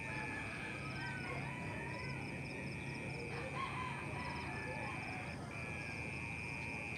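An unseen insect making a continuous high-pitched buzz, one steady tone that drops out briefly about five seconds in, with birds calling faintly beneath it.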